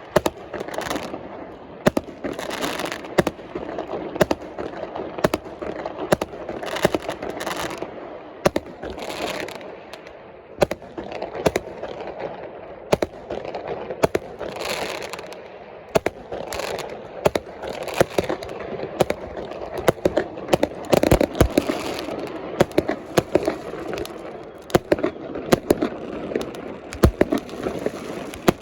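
Fireworks display: shells bursting in many sharp bangs at irregular, often quick succession over a steady background rumble.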